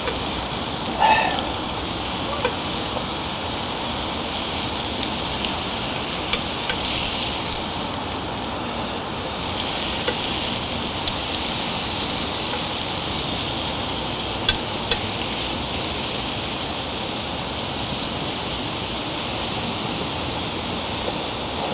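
Beef sirloin and garlic sizzling steadily on a hot grill pan, with a few sharp clicks of utensils against the pan. A brief pitched sound comes about a second in.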